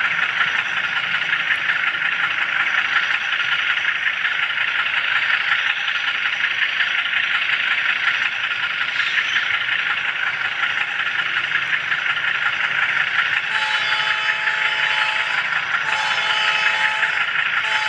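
Steady rolling and motor noise of a small camera car running on HO scale model railroad track. From about two-thirds of the way in, a chord of held tones sounds twice over it, each for about two seconds.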